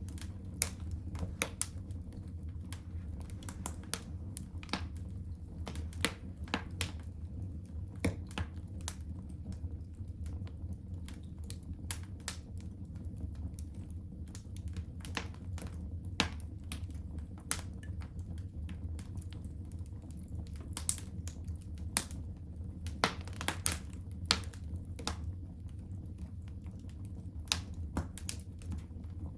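Wood fire crackling in a fireplace: irregular sharp pops and snaps, several a second and uneven in strength, over a steady low hum.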